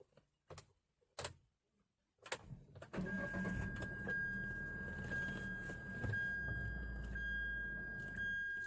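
Hyundai Santro's 1.1-litre four-cylinder petrol engine being started: a few clicks as the key is turned, then the engine catches about three seconds in and idles steadily, with a steady high-pitched tone above it.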